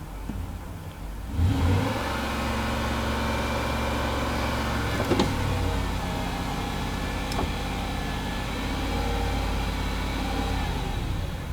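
Supercharged 4.2-litre V8 of a 2006 Range Rover Sport revved about a second and a half in and held at raised revs, settling back toward idle near the end. Two short clicks are heard in the middle.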